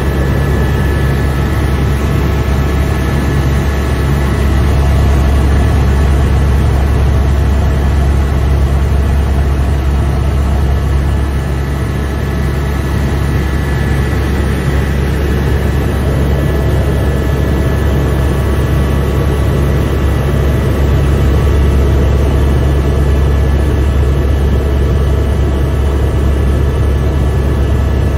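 Helicopter in flight heard from inside the cabin: a steady, loud low drone of rotor and engine with several steady whining tones above it, changing little throughout.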